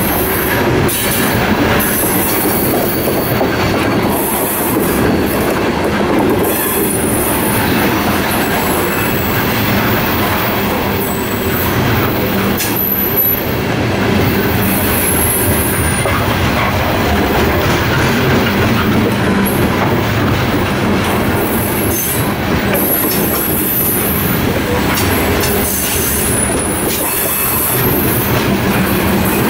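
Freight train's covered hopper cars rolling past close by: a steady loud rumble of steel wheels on rail, with frequent short, high-pitched wheel squeals.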